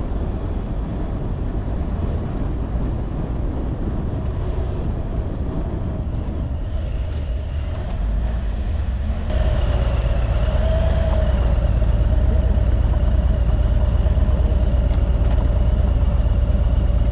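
Harley-Davidson Tri Glide trike riding on the road: its V-twin engine running steadily, with road and wind noise. About nine seconds in it gets louder, and a steady whine comes in.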